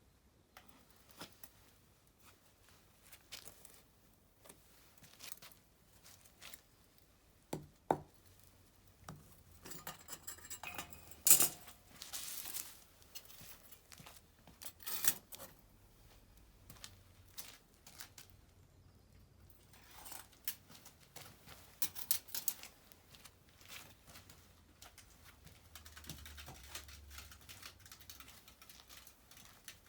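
Irregular small clicks, clinks and rustles of objects being handled at close range, with a sharp click about eleven seconds in.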